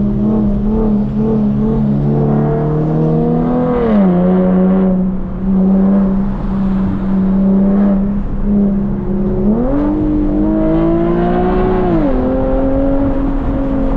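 Infiniti G37 coupe's 3.7-litre VQ V6 running through a full titanium Tomei exhaust under way. It is a loud, steady note that climbs and drops sharply at a gear change about four seconds in, then revs up again around ten seconds and drops at another shift near twelve seconds.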